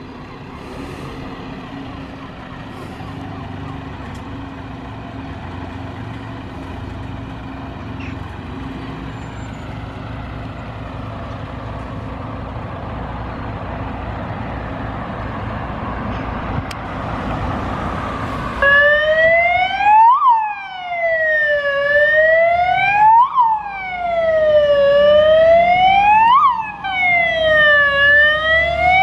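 Fire engine pulling out on an emergency call: a truck engine's steady rumble grows louder, then about two-thirds of the way through the siren comes on, a loud wail whose pitch climbs sharply and slides back down about every three seconds.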